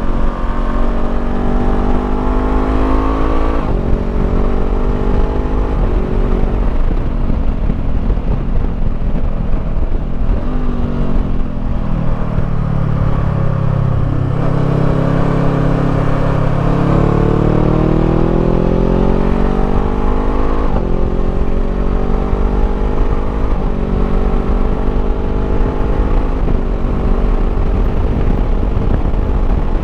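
Honda CBR500R parallel-twin engine through a Termignoni slip-on exhaust, accelerating through the gears while riding. The engine note climbs and then drops at each upshift, several times. Around the middle it falls away as the bike slows, then climbs again in one long pull. Wind rumbles on the microphone underneath.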